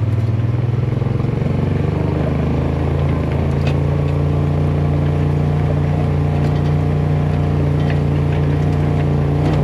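A vehicle engine running steadily, its pitch shifting slightly about two seconds in and then holding constant.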